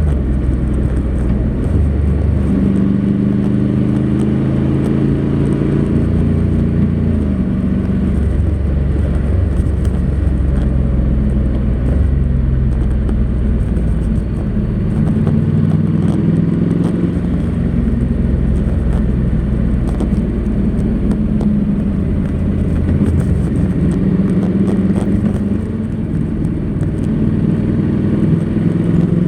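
Honda NC700X's parallel-twin engine through its stock exhaust, running under way. Its pitch rises and falls in steps and glides as speed and gears change.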